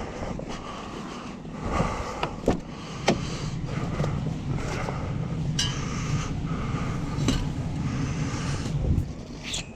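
Truck idling with a steady low hum, while scattered clicks and knocks come from gear being loaded into the cab.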